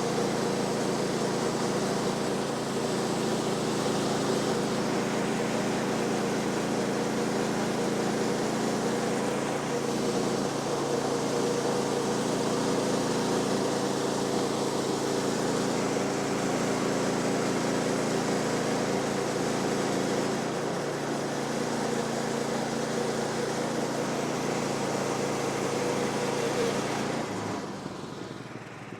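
Portable bandsaw sawmill's engine running steadily at a constant speed, then stopping about 27 seconds in.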